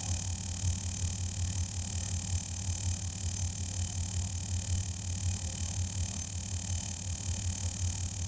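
Air compressor running steadily while a tire is aired up: a low, rapidly pulsing motor hum with a steady high hiss of air.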